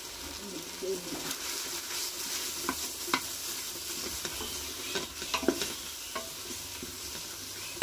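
Onion-tomato masala with fresh ground spices sizzling in oil in a metal pressure cooker pot, stirred with a spatula that scrapes and knocks against the pot now and then.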